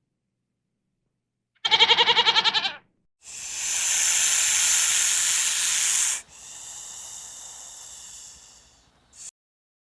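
A short quavering animal bleat, then a loud hiss lasting about three seconds that drops to a quieter hiss for about two more, ending with a brief puff of hiss.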